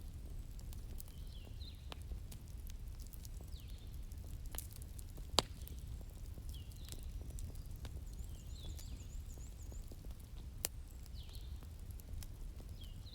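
Wood fire crackling with sharp pops over a steady low rumble; the loudest pop comes about five seconds in. Small birds chirp several times, with a quick run of high notes about nine seconds in.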